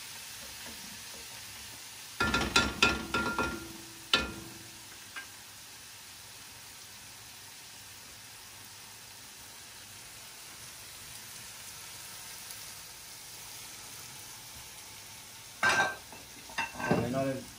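Green onion, garlic and spice mixture frying in a pan with a steady low sizzle. Sharp knocks and clinks of kitchenware come about two to four seconds in and again near the end.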